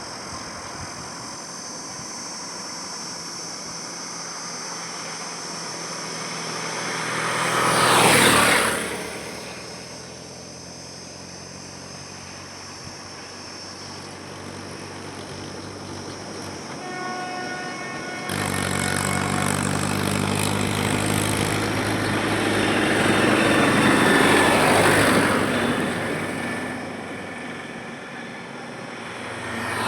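Highway traffic with vehicles passing close by: a loud pass-by about 8 seconds in, a horn sounding briefly just before the middle of the second half, then a heavy vehicle's engine rumbling as it approaches and passes, and another vehicle passing at the end.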